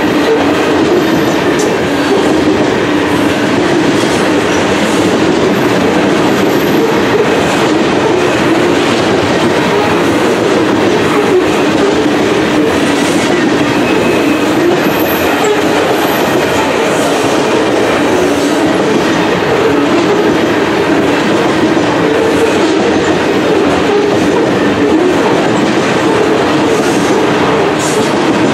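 Covered grain hopper cars of a long freight train rolling past, their steel wheels running loudly and steadily on the rails.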